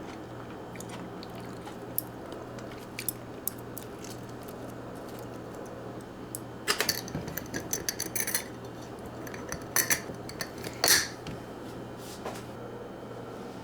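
Metal utensils clinking and tapping against dishes: a few scattered clicks, then a busier run of clinks about seven seconds in, with the loudest knock near the end. A steady low hum runs underneath.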